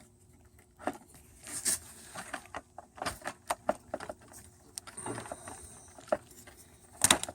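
Irregular sharp plastic clicks and rattles from handling a Mercedes ML320 instrument cluster as its bulb sockets are twisted out, with a louder burst of clicks near the end.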